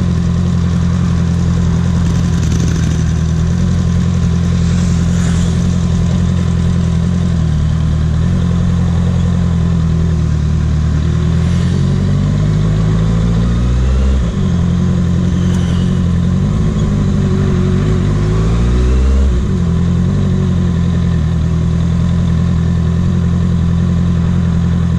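Sport motorcycle's engine running at low revs while creeping through slow traffic, with gentle rises and falls in revs about halfway through and again a little later.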